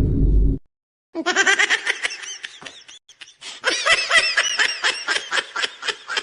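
A loud boom fading out in the first half second, then a person laughing hard in rapid rhythmic bursts, a short first stretch and a louder second one after a brief pause.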